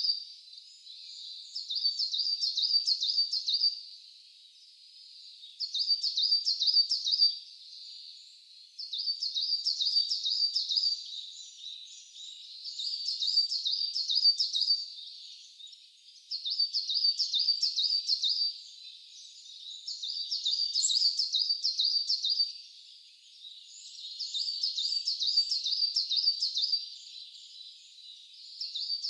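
A bird singing the same short phrase of rapid, repeated high notes over and over, each phrase lasting about a second and a half with a short pause between. Fainter calls from other birds come in between the phrases in the second half.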